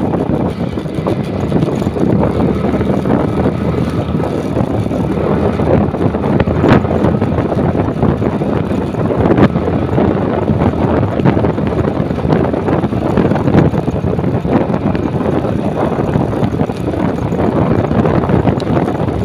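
A motorcycle being ridden, its engine running steadily under heavy wind buffeting on the microphone. The rumble is loud and even, with a few brief knocks.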